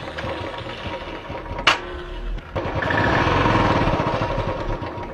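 Motorcycle engine running after a repair got a bike that would not start going. A sharp click comes just under two seconds in, then the engine is revved up a little past halfway and eases back.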